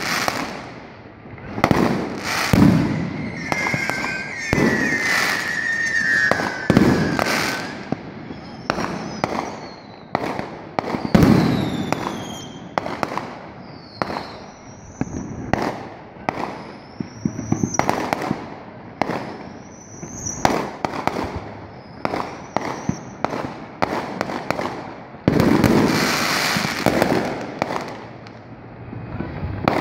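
Aerial fireworks going off in quick succession: repeated sharp bangs, with whistling shells sliding up and down in pitch through the first two-thirds, and a dense burst of crackling near the end.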